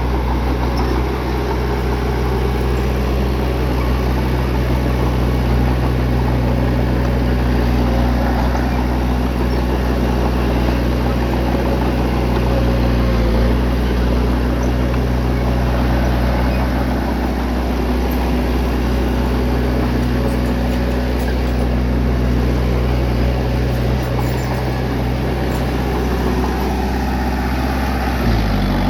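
Bulldozer's diesel engine running steadily, a deep even drone, with a few faint clicks in the second half and a brief dip in the engine note near the end.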